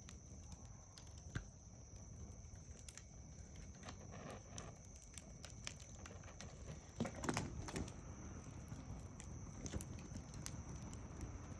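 Campfire crackling: irregular sharp pops and snaps from burning wood, with a louder flurry of crackles a little past halfway.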